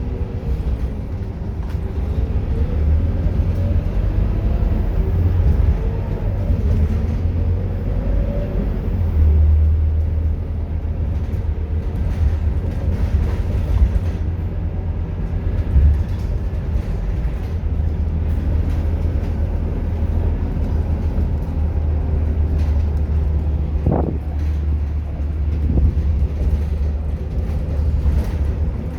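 Scania K230UB city bus's diesel engine running under way: a steady low rumble, its pitch rising and falling over the first ten seconds as it pulls away and changes speed. A brief high squeal sounds about 24 seconds in.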